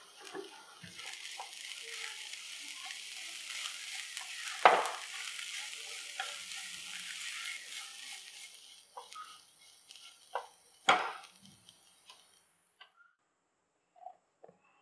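Chopped shallots and spice powders sizzling in oil in a non-stick frying pan while they are stirred with a silicone spatula, with a few sharp knocks against the pan, the loudest about five seconds in. The sizzle stops about twelve seconds in.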